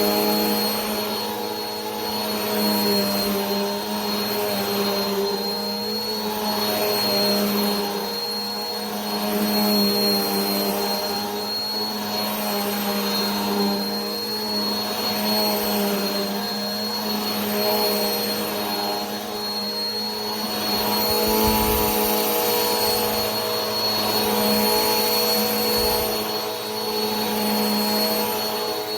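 Vacuum cleaner running continuously: a steady motor whine and hum over rushing air noise, gently swelling and easing about every two seconds.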